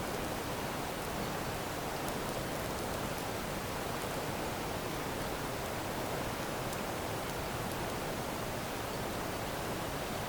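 Steady rushing water noise, even and unbroken, with a few faint ticks.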